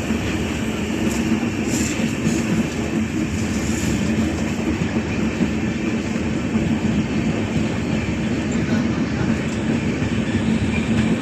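Passenger train running, heard from inside the carriage: a steady rumble of wheels on track with a constant low hum.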